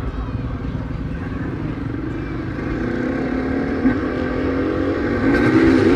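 A vehicle engine running in an arena display, its pitch rising and falling as it revs in the second half.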